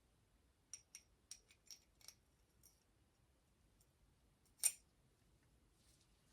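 Faint, light clicks of small bicycle brake parts being handled: about six quick ticks in the first couple of seconds, then one sharper click later on.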